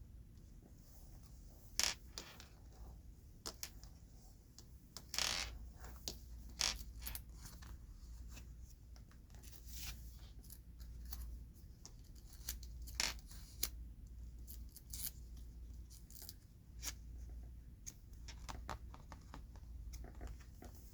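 Hands handling large Pokémon cards: irregular sharp taps, clicks and scrapes of card stock being moved and tapped, with no rhythm.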